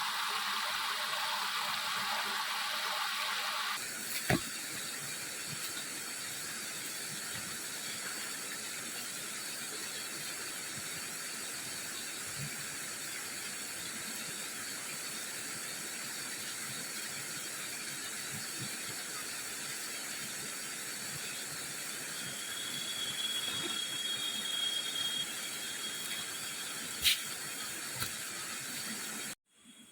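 Steady rushing of river water. About four seconds in it changes abruptly to a thinner, higher hiss, with a brief thin high tone in the second half and a few sharp clicks.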